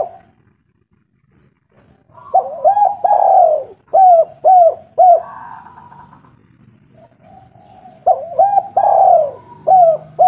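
Spotted dove cooing: two phrases of several short, repeated coos. The first begins about two seconds in after a near-silent pause, and the second comes near the end.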